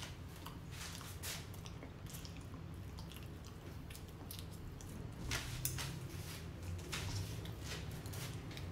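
A person chewing a mouthful of peanut butter and mayonnaise sandwich on a soft hot dog bun: faint, irregular mouth clicks.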